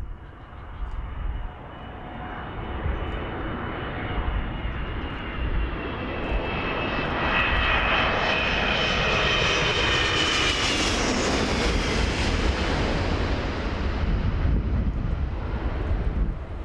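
An airliner on final approach passing low overhead: its engine noise swells over several seconds to a peak about ten seconds in, with a high whine that drops slightly in pitch as it goes by, then fades.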